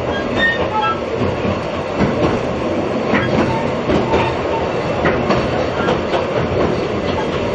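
Narrow-gauge railway carriage running along the track, heard from inside: a steady rumble with wheel clatter and a few brief faint squeals near the start.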